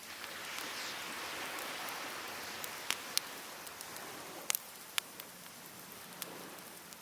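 Surf washing onto the beach, swelling over the first second or two and then slowly ebbing, with a handful of sharp crackles and pops from burning firewood.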